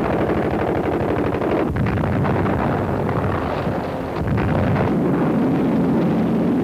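Old newsreel battle sound: a loud, continuous roar full of rapid gunfire-like crackle and explosion rumble, dipping briefly twice.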